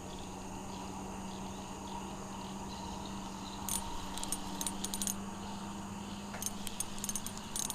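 Small metallic jingling in two short bursts, about a second and a half long each, the first starting a little past halfway and the second near the end. Under it runs a steady chorus of night insects.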